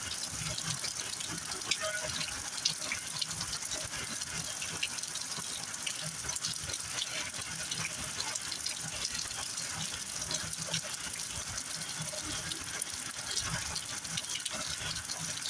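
Heavy rain falling steadily, with many close drop hits ticking through a continuous hiss.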